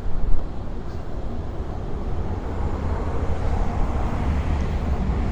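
Wind buffeting a windscreen-covered microphone on the open deck of a fast-moving ship: a steady low rumble with a stronger gust just after the start.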